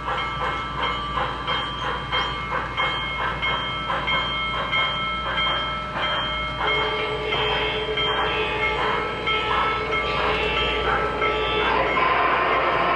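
Several O-gauge model trains running together, their onboard sound systems playing: a rhythmic steam-locomotive chuff, about two to three beats a second, over steady engine tones and the rattle of wheels on the track.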